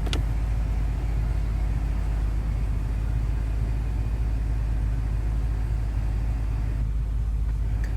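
BMW M5 (F10) twin-turbo V8 idling, a steady low rumble heard from inside the cabin, with a single sharp click right at the start.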